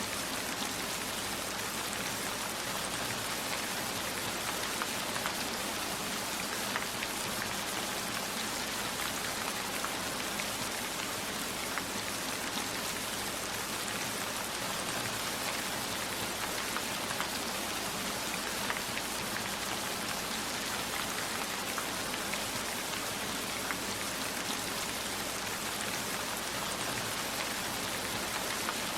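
Steady heavy rain falling, an even hiss with scattered small ticks of drops.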